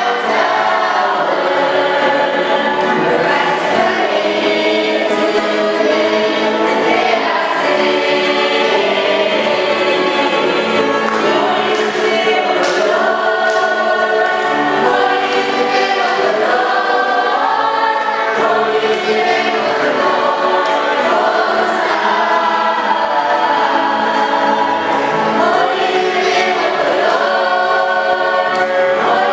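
A choir singing a hymn, several voices together in steady harmony.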